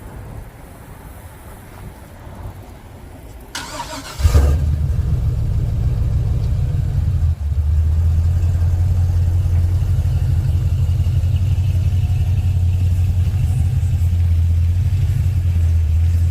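A truck engine is cranked briefly and starts about four seconds in, then idles with a loud, deep, steady drone. The exhaust pipes have been cut off, so it runs with an open exhaust.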